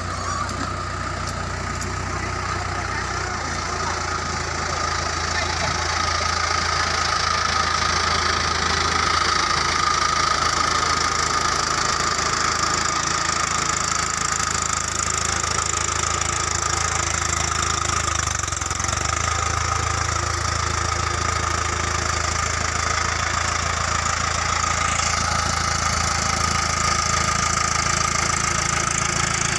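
Small farm tractor's engine running steadily while pulling a turmeric sowing machine, growing louder over the first several seconds and then holding even.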